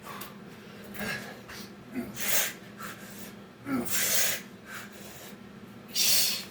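A man's heavy breathing from the exertion of Navy SEAL burpees: three loud, hissing exhales about two seconds apart, with fainter breaths between.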